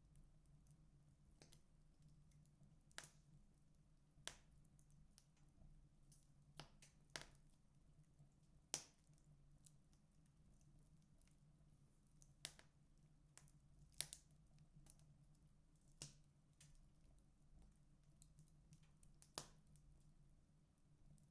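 Wood fire crackling in a fireplace: irregular sharp pops and snaps a second or two apart, the loudest about nine and fourteen seconds in, over a faint steady low hum.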